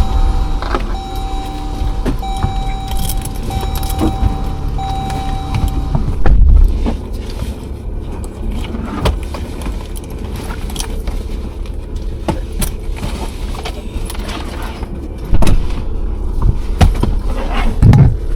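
Car cabin sound: an engine and road rumble, with a car's warning chime beeping about once a second for the first six seconds before it stops. Scattered clicks and knocks, like keys or things moving in the car, run through it.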